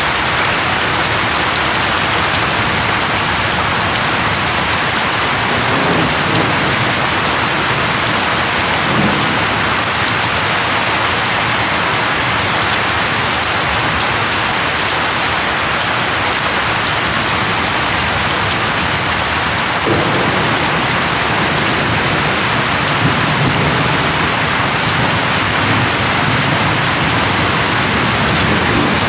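Steady, dense rainfall pattering on a surface, with a few low rumbles of distant thunder rising under it.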